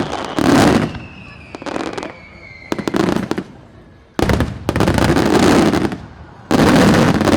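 Aerial fireworks shells bursting over and over in quick succession, each burst a loud boom with a crackling tail, the last two long and dense. A thin falling whistle runs under the first few seconds.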